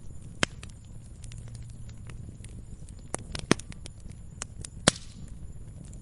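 Wood fire crackling in a fireplace: irregular small crackles over a low steady rumble, with three sharper pops, about half a second in, at about three and a half seconds, and near the end.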